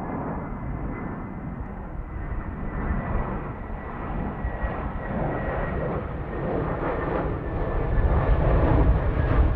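Jet airliner engines, a broad jet noise with a steady high whine running through it, growing louder toward the end as the aircraft nears.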